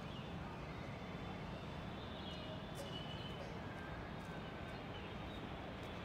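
Steady low rumble of a passenger train hauled by a WAP-4 electric locomotive, approaching slowly from a distance. Faint bird chirps can be heard over it.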